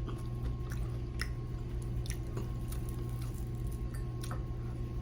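Faint, scattered wet clicks and squishes from hot fried chicken wings being handled, over a steady low hum.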